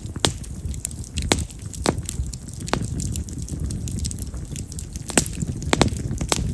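Campfire of split mountain cherry (yamazakura) firewood burning, with a low steady rumble of flame and sharp, loud wood pops and crackles every second or so.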